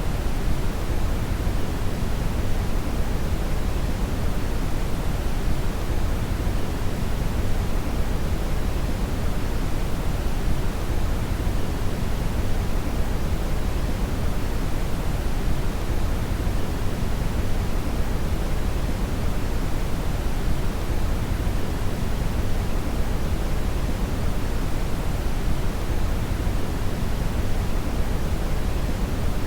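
Steady brown noise: a synthetic, even rushing hiss weighted heavily toward the deep end, unchanging throughout.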